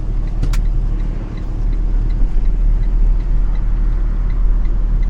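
Semi-truck diesel engine running at low speed, heard from inside the cab as a steady low rumble. A single click comes about half a second in, and a faint regular ticking, about three ticks a second, runs beneath the engine.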